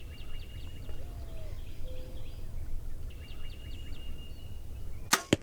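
A small bird trilling twice, rapid high notes over low wind noise. Near the end comes a sharp double crack, the loudest sound, from a compound bow being shot at a turkey.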